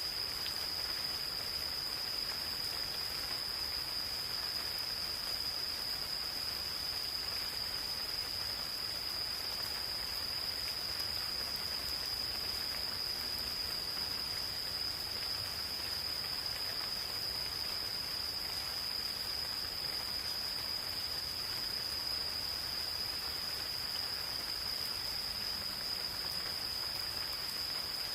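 Gentle rain falling steadily, with insects calling in one unbroken high-pitched trill.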